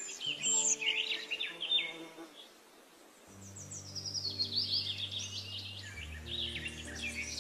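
Songbirds singing in quick chirps and trilled phrases over soft background music of held, slowly changing chords. The birdsong eases off for a moment about halfway through.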